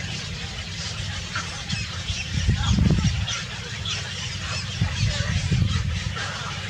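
Birds calling in short scattered chirps, with two louder low rumbling surges, about two and a half and five seconds in.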